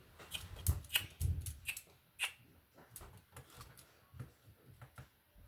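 Lego bricks clicking and rattling against each other as they are handled. It is a quick run of small plastic clicks, thickest in the first couple of seconds and sparser after.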